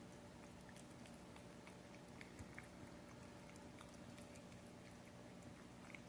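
A cat chewing and lapping wet paté with gravy: faint, irregular wet clicks and smacks over a steady low hum.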